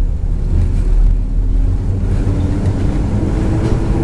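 MAZ 103.562 city bus's diesel engine running, heard from inside the cabin as a steady deep rumble. From about halfway through, a whine rises slowly in pitch.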